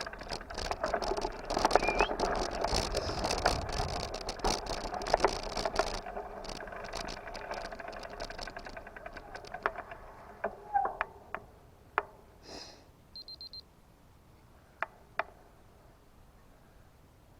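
Bicycle riding noise with rattling, which dies away into a run of ticks that slow and fade, then a few scattered clicks and a short electronic beep.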